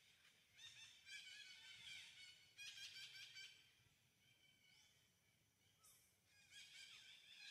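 Faint chorus of high chirping and trilling bird calls, coming in bursts: thickest from about one to three and a half seconds in, thinner for a while, then picking up again near the end.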